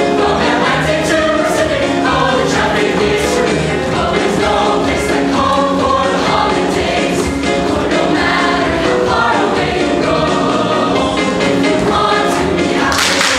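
Choir singing together over an accompaniment with a steady percussive beat.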